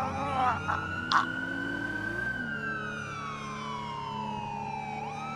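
Police siren wailing: a held tone that slowly falls over a few seconds, then sweeps sharply back up near the end.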